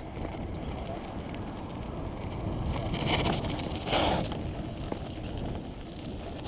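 Mountain bike rolling along a dirt trail: tyre and drivetrain rumble with wind buffeting the helmet or handlebar camera's microphone. There are two louder rough bursts about three and four seconds in.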